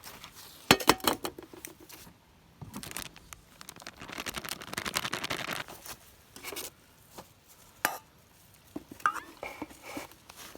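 Handling of camp cookware and utensils: a few sharp clinks and knocks about a second in, a stretch of rustling noise in the middle, then scattered clicks.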